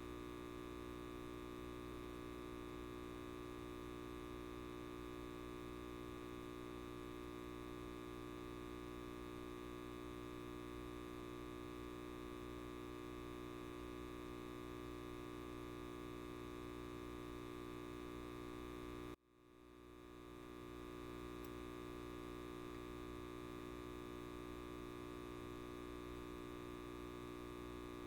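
Light bulb buzzing with a steady mains hum of many layered tones. About two-thirds of the way through it cuts out suddenly and fades back in within a second.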